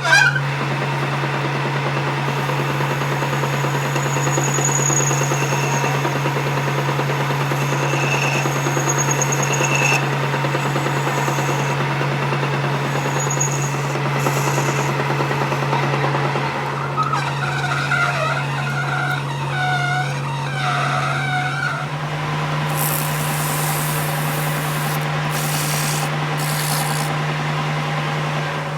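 A machine running with a steady low hum and a fainter higher whine, with scraping and rubbing over it that changes texture about two-thirds of the way through.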